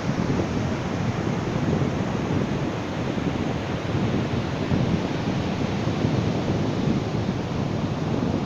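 Ocean surf washing on a beach: a steady, rushing noise of waves with no single crash standing out.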